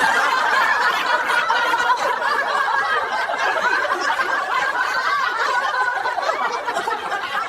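A group of people laughing together, many voices chuckling and snickering at once, fading slightly near the end.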